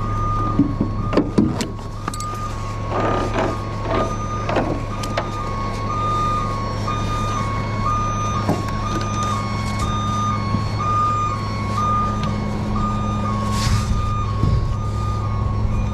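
Heavy truck diesel engine running steadily under a continuous two-tone warning alarm that steps up and down in pitch about once a second. Several sharp metal clanks come in the first few seconds, and a short hiss of air comes near the end.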